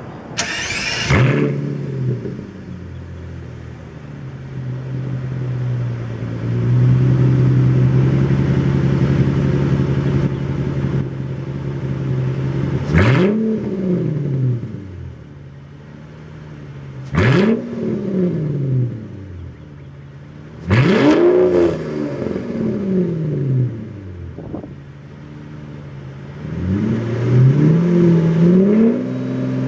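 Mercedes-Benz S600's straight-piped V12 starting up about half a second in and settling into a steady idle. It is then blipped three times, each rev rising and falling back to idle, and a longer rev begins near the end.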